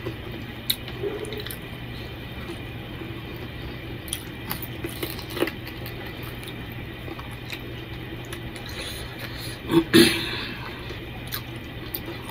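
Close-up chewing and wet mouth sounds of a man eating chicken curry with his hands: soft squishy clicks and smacks over a steady low hum, with one louder wet smack about ten seconds in.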